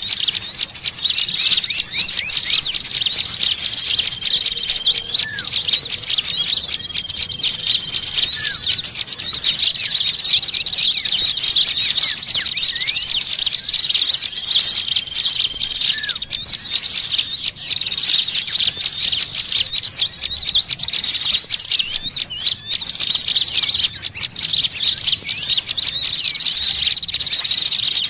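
A dense, noisy chorus of many small songbirds chattering and twittering, with quick high chirps overlapping without a break and short level whistled notes every few seconds. It is the agitated 'ribut' small-bird din used as a bird-trapping lure call (suara pikat).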